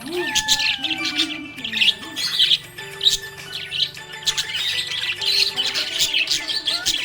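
Budgerigars chirping and chattering without a break, many quick overlapping chirps.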